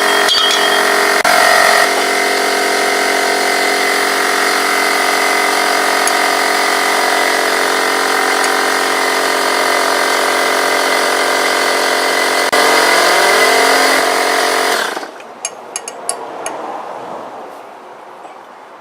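A motor-driven machine or power tool running steadily with a constant pitch, changing pitch briefly near the end before cutting off suddenly about fifteen seconds in, followed by a few sharp clicks.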